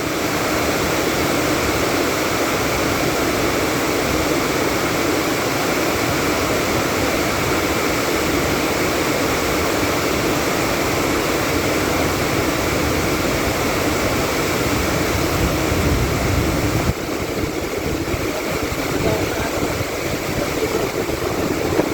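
Heavy rain pouring down as a steady, loud rushing noise. It dips abruptly in level about seventeen seconds in, then carries on.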